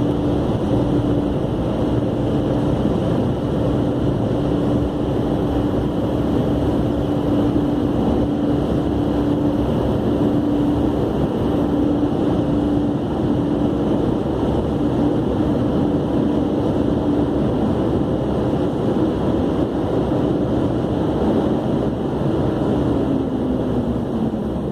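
Car wash machinery running: a steady, loud rushing with a motor hum that cuts in and out, then winds down in pitch near the end.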